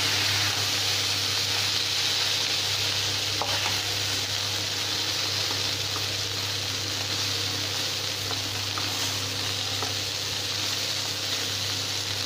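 Eggplant pieces sizzling steadily in coconut oil in a non-stick pan on low heat, frying down toward crisp. A metal spatula turns them now and then, with a few faint taps on the pan.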